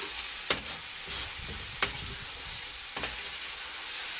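Squid and squid-ink sofrito sizzling steadily in a steel paella pan while it is stirred, with three short clicks of the utensil against the pan.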